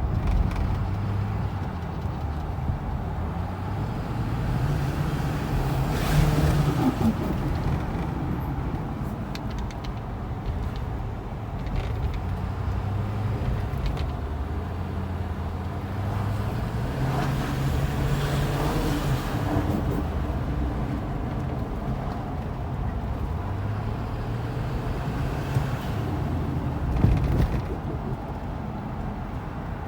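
Ford F-350's 6.4 L Power Stroke V8 turbodiesel pulling through repeated accelerations, its engine note climbing and then dropping back. A short turbo flutter comes as the throttle is lifted, about three times.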